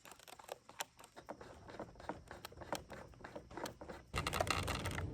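Small irregular clicks and scratches of hand work as the RC plane's wing is fitted back on and its screws are driven in. A low steady background hum comes in about four seconds in.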